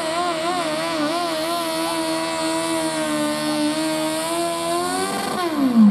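Pulling machine's engine running hard at high revs under load, its pitch wavering up and down, then the revs falling away sharply near the end as the throttle comes off.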